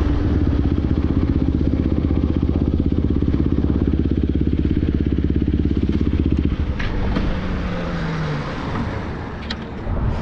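KTM Duke 250's single-cylinder engine running hard at steady high revs; about six and a half seconds in the throttle closes and the note drops away into a falling whine as the bike slows.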